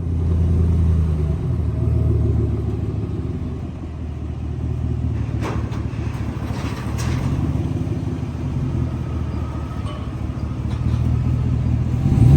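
A vehicle engine running with a steady low rumble that swells and eases a little, with a couple of sharp clicks about halfway through.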